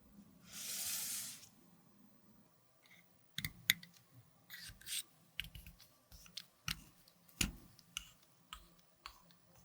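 A short hiss of about a second, then a run of irregular light clicks and taps from makeup containers and small tools being handled.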